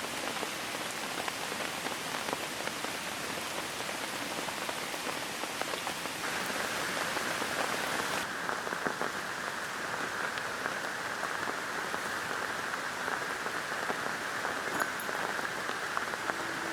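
Steady rain falling, a dense hiss full of small individual drop impacts. Its tone changes about six seconds in, and the higher hiss drops away about two seconds later.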